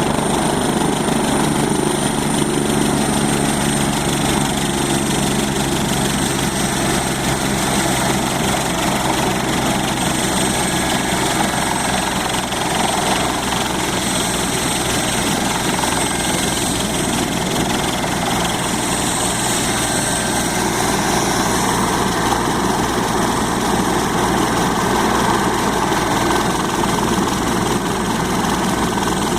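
Helicopter engine and rotor running steadily, with a thin high whine held over it.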